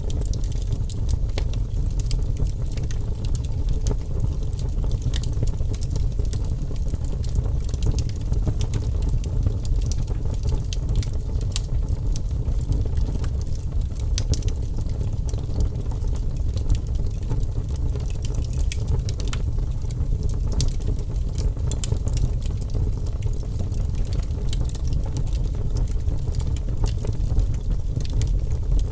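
Wood fire burning in a fireplace: a steady low rumble of the flames with many small, irregular crackles and pops.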